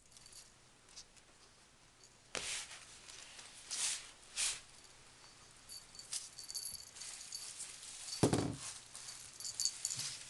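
Short bursts of rustling and light clicking, with a dull thump about eight seconds in.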